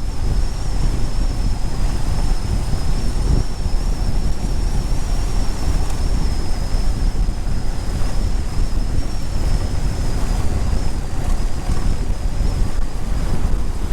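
Heavy wind buffeting the microphone of a moving motorcycle, a steady loud rumble with the bike's running hidden underneath and a thin, steady high whine throughout.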